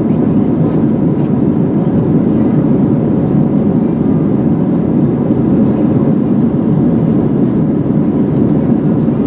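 Steady cabin noise inside an Airbus A320-211 in flight: an even drone of the CFM56 jet engines and airflow along the fuselage, heard from a rear window seat.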